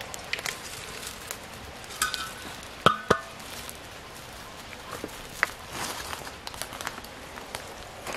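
Scattered light clicks and knocks of small hard objects, with two sharp, ringing clinks about three seconds in.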